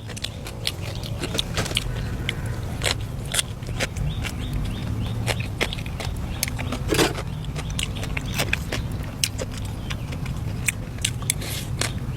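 People eating: close-up chewing and biting with many short, irregular clicks, over a steady low rumble.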